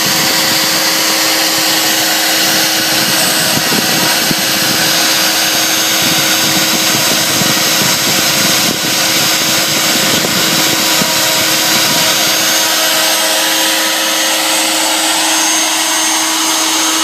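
CNC router spindle running steadily while routing an inlay into a wenge guitar top: a constant hum under a broad rushing noise.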